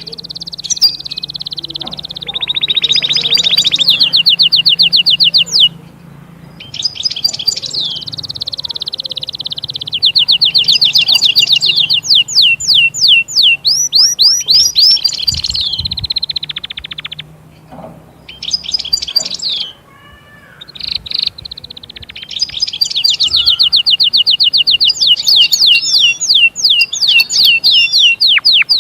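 European goldfinch singing: long, fast phrases of rapid repeated twittering notes and trills, broken by short pauses about six seconds in and again around two-thirds of the way through.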